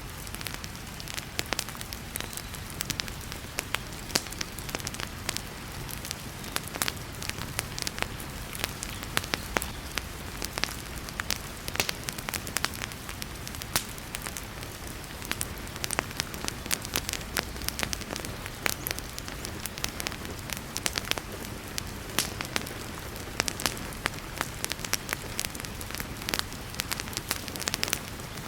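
Wood fire crackling in a fireplace, with frequent sharp pops and snaps over a steady hiss of heavy rain.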